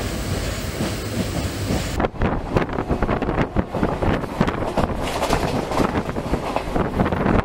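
Passenger train coach running along the track, a steady rumble and rattle heard inside the carriage. About two seconds in the sound changes abruptly to a rougher, gustier rattle with wind buffeting the microphone at the open window.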